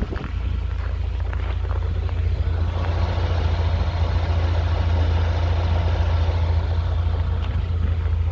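UAZ running with a steady low rumble and a knock that the owner places on the driver's side, its cause unknown to him.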